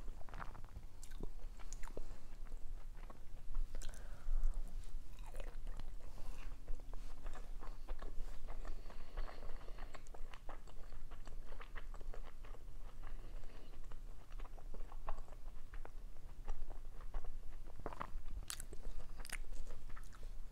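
A person chewing and biting food, with scattered crunches: dolmas (stuffed grape leaves) and salad vegetables such as cucumber. Sharper crunches come close together near the end.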